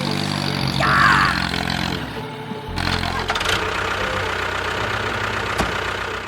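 A vehicle engine running steadily at idle. It drops out briefly a little after two seconds in and picks up again, with a short brighter sweep about a second in and a sharp click near the end.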